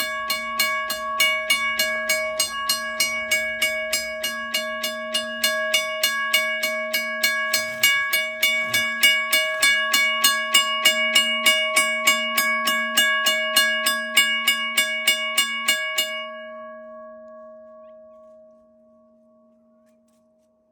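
Railroad crossing bell ringing with rapid, even strikes, a few a second. The strikes stop about 16 seconds in and the bell's tone dies away over the next few seconds.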